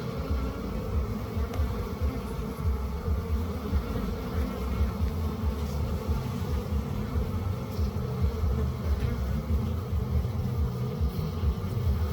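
Bees buzzing steadily over a fluctuating low rumble.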